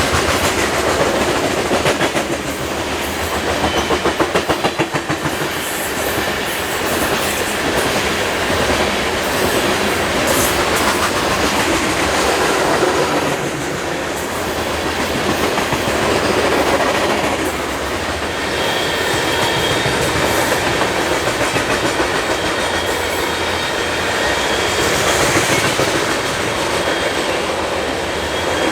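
Loaded coal hopper cars of a long freight train rolling past, steel wheels clicking rapidly and rhythmically over rail joints, with a faint high wheel squeal joining about two-thirds of the way through.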